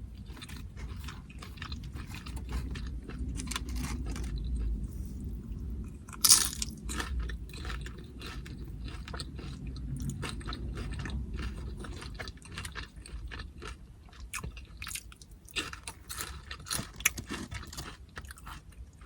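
A person chewing and crunching on tortilla chips loaded with carne asada, with many crisp crunches one after another and a louder bite about six seconds in.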